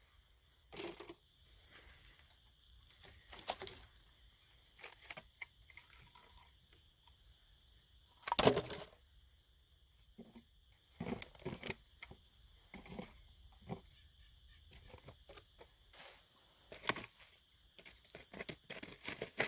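Scattered crinkling, crunching and rustling of plastic litter and a trash bag being picked up and handled with a litter grabber, in short irregular strokes, the loudest about eight seconds in.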